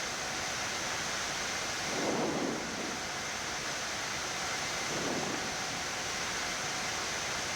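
Steady hiss of airflow and equipment fans on a Boeing 787 flight deck, with faint constant tones. Two faint, muffled low swells come about two and five seconds in.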